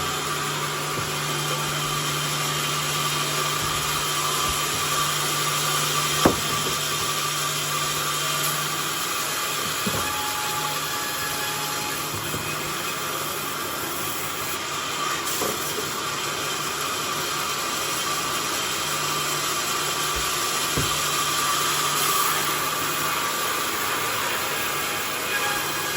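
Sawmill running steadily while sawing a burnt bayur log, a dense, even mechanical noise with a low motor hum. One sharp knock stands out about six seconds in.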